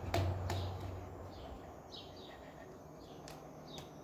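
Birds chirping, a series of short falling chirps, with a few sharp clicks and a low hum that fades out during the first second.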